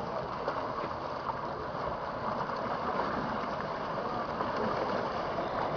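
Floodwater rushing: a steady, even noise of fast-flowing water.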